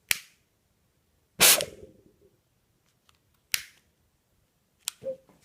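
Four sharp clicks and snaps a second or two apart, the second one the loudest, during an attempt to ignite a homemade alcohol-fuelled jar pulse engine that fails to fire.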